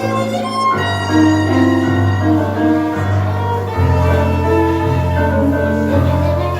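Tango music: a violin carrying the melody over bass notes that change about once a second.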